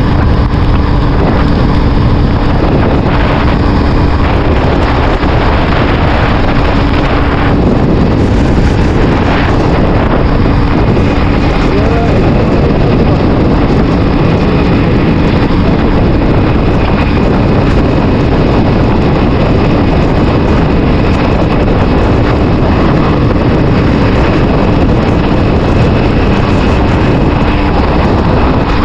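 CFMoto 450SR motorcycle under way in the rain: a steady rush of wind and rain noise over the microphone, with the engine's even running tone underneath.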